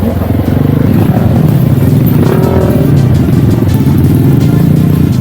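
Dirt bike engine running steadily as the bike is ridden, with music playing over it.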